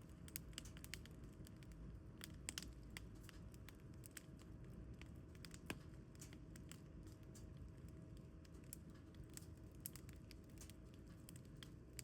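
Firewood burning, crackling faintly with many sharp, irregular snaps and pops, a few louder than the rest, over a low steady hum.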